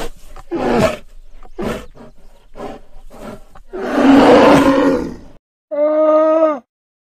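Polar bear giving a run of short, breathy huffs, then a long rough growl about four seconds in, the loudest sound. Near the end comes a short pitched call from a llama, lasting about a second.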